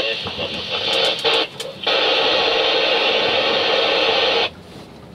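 Hiss like radio static, coming in two abrupt bursts: a short one at the start and a longer one of about two and a half seconds, which cuts off sharply near the end.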